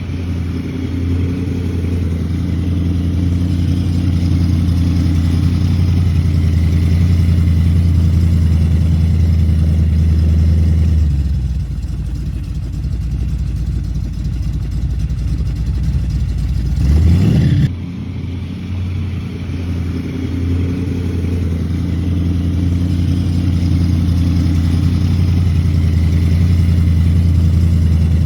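Supercharged .060-over 396 big-block V8 in a 1981 Chevrolet Camaro pro street car, running with a steady low note. Its tone breaks up for several seconds in the middle, then a quick rev rises about 17 seconds in and cuts off sharply before the idle settles back in.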